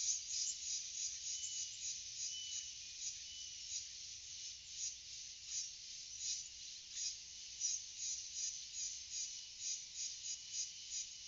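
Insects chirring in a steady, high-pitched chorus of rapid pulses.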